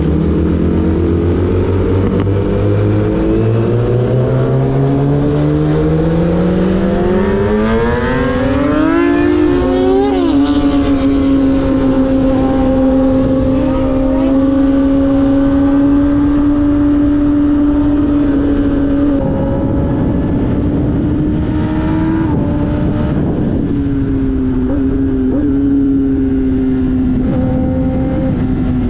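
Sportbike engine accelerating, its pitch climbing steadily for about nine seconds, then holding a high, steady note at speed, dropping briefly a couple of times and easing off near the end, over wind rush.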